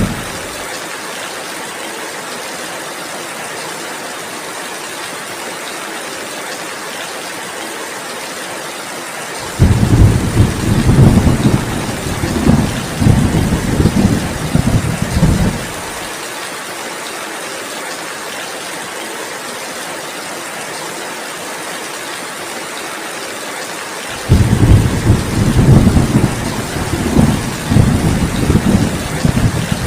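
Heavy rain falling steadily, with two long rolls of thunder, one about ten seconds in and one near the end, each lasting about six seconds and louder than the rain.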